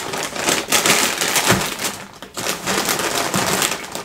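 Crunchy chewing of a mouthful of food: a dense run of rapid crackles.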